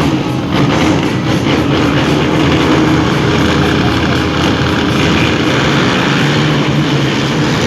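Engines of several racing quad ATVs running hard together, a loud steady mechanical din whose pitch shifts as they rev.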